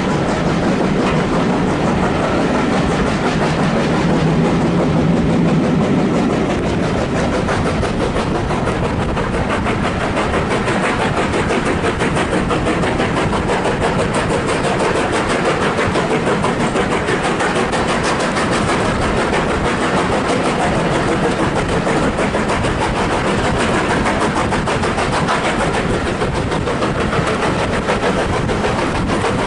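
A train running along the line, its wheels rumbling steadily over the rails with a clickety-clack. A low hum sits under it for the first few seconds.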